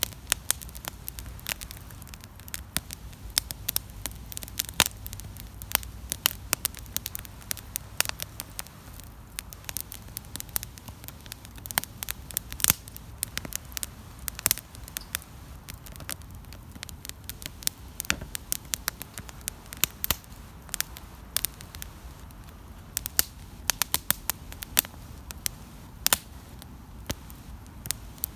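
Wood campfire crackling, with many sharp irregular pops and snaps over a low steady rumble.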